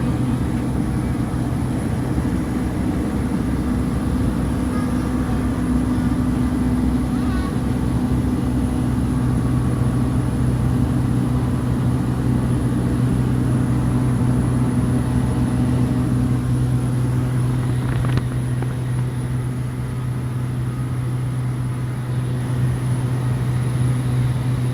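Cessna 208B Caravan's single turboprop engine and propeller running steadily at power, heard inside the cabin as an even drone with a strong low hum.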